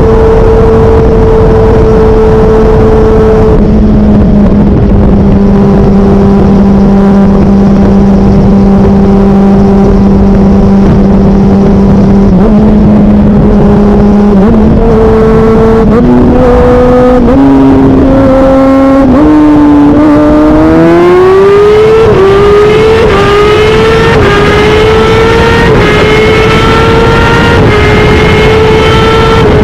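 Motorcycle engine running loud at a steady speed, then accelerating hard through the gears, its pitch climbing in steps with short drops at each upshift.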